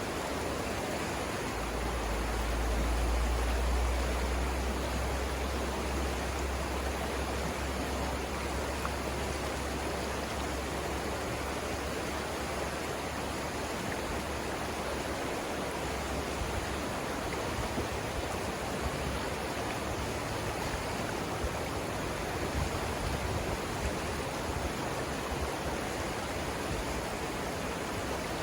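Steady rush of river water running over the Savannah River rapids, an even hiss with a deep rumble underneath that swells a few seconds in.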